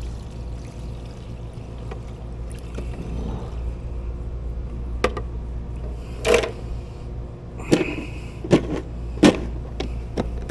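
A steady low machine hum. In the second half come a few sharp knocks and clatters, as of equipment being handled.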